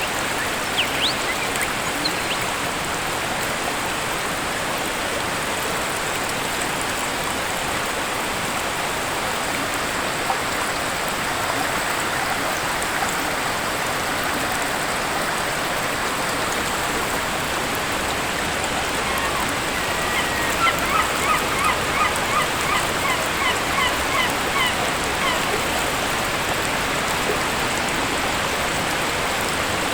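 Steady rush of a waterfall. About twenty seconds in, a bird calls a quick run of short notes, about three a second, for roughly five seconds, fading toward the end, with a few faint chirps near the start.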